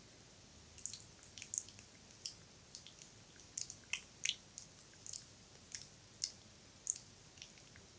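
Wet ASMR mouth sounds close to the microphone: irregular sharp, wet clicks and smacks, starting about a second in.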